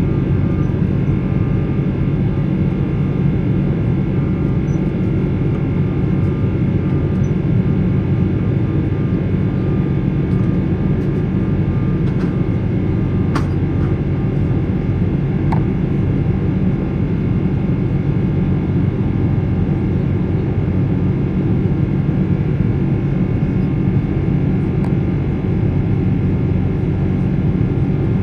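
Boeing 777-300's Rolls-Royce Trent 800 engines running at steady thrust, heard from inside the passenger cabin as a loud, even rumble with a steady hum of tones above it.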